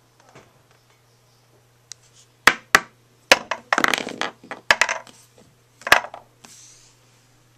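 Skateboard hitting the ground during a trick attempt: a few sharp smacks of the deck, then a burst of the board knocking and rattling, with a last loud smack about six seconds in.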